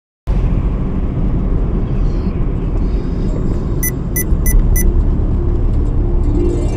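Steady low rumble of a vehicle in motion, with four quick electronic beeps, evenly spaced, a little past the middle.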